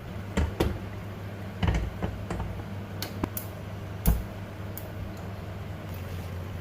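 Kitchen utensils and dishware clicking and knocking in irregular sharp taps, the loudest about four seconds in, over a steady low hum.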